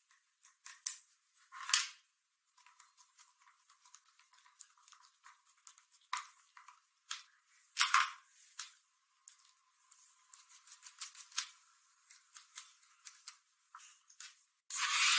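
Irregular small clicks, taps and short scrapes, a few louder ones among many faint ones, as of hand work on small hard parts. Near the end a loud, steady hissing noise starts abruptly.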